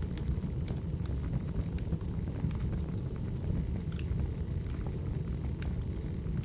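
Crackling wood fire: logs burning with a steady low rumble, sprinkled with scattered sharp crackles and pops.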